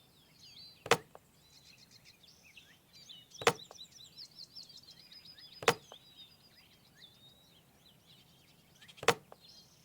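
Four sharp clicks, spaced a few seconds apart, of small toy pieces being set down on a diorama board, with faint birds chirping behind.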